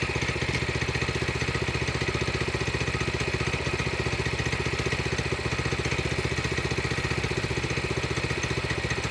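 Portable sawmill's engine idling steadily with an even, fast firing beat.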